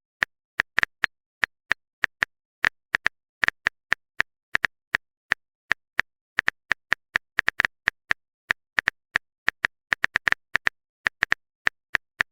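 Phone keyboard typing sound effect: a string of short, uneven clicks, a few a second, as a text message is typed out.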